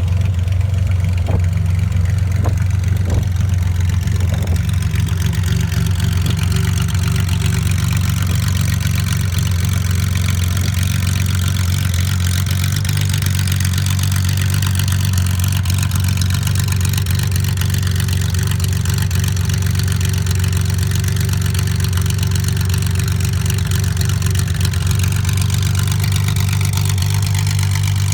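1974 Porsche 911 RSR race car's air-cooled flat-six idling steadily as it warms up after a cold start. A few sharp clicks sound in the first few seconds.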